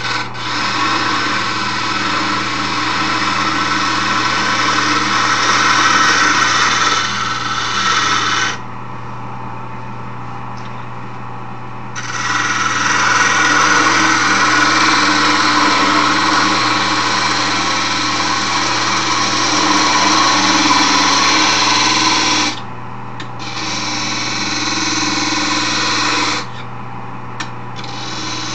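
Wood lathe running with a steady motor hum while a scrap-wood file handle spinning on it is worked, a loud scraping noise that comes in long spells and stops for a few seconds about eight seconds in, then briefly twice near the end.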